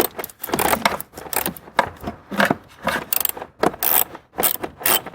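Hand tool working loose a blower-motor mounting screw: a run of irregular metallic clicks and scrapes.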